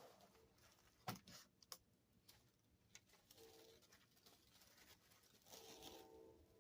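Faint clicks and light rustling: a plastic model railroad freight car kit and its box being handled. A few sharp clicks come about a second in, then quieter handling noise.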